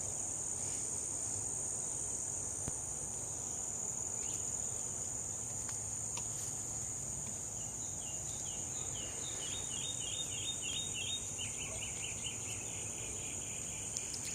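Outdoor insect chorus, crickets, holding one steady high-pitched trill throughout. About eight and a half seconds in, a quick run of short repeated chirps sounds for about three seconds.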